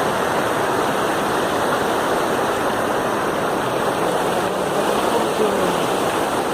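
Steady rush of water from a waterfall, an even hiss and roar with no breaks.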